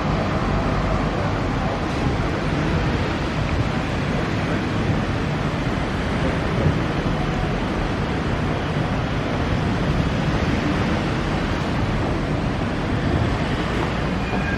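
Steady outdoor background roar, an even noise with no distinct calls, knocks or other events standing out.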